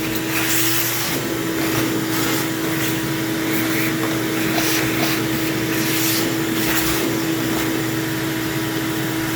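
A vacuum cleaner motor running steadily with a high whine and loud rushing air. The hiss surges irregularly as it sucks pet hair and dirt out of an opened-up vacuum cleaner.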